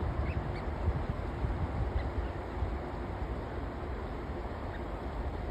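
River water flowing with gusty wind rumbling on the microphone, and a few faint, short duck calls.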